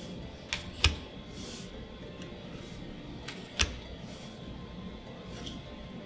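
Magic: The Gathering trading cards being handled: a few sharp snaps and taps of card against card, about half a second, one second and three and a half seconds in, the last the loudest, with soft swishes of cards sliding between them.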